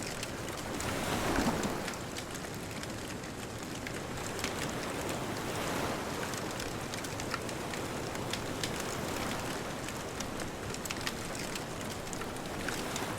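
Bonfire crackling with scattered sharp pops over a steady wash of distant ocean surf; a wave swells louder about a second in.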